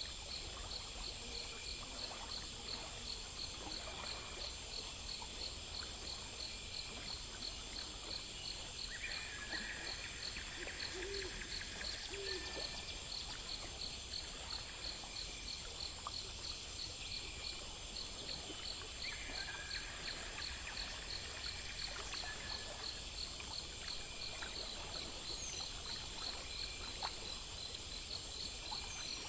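Nature ambience of insects chirping in a steady rapid pulse with a constant high whine, over a low hiss. Two short low hoots come about eleven seconds in.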